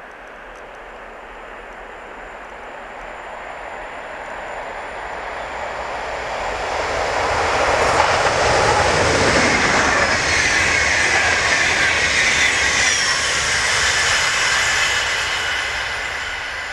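Electric locomotive hauling a rake of passenger coaches past at speed. The rushing wheel and track noise builds as it approaches, is loudest as the locomotive goes by about eight seconds in, stays loud while the coaches pass, then fades as the train draws away.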